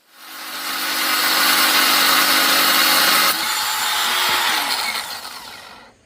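A handheld power tool running for about six seconds, with a steady motor hum under a loud rasping noise. The hum drops in pitch a little past halfway, and the sound stops shortly before the end.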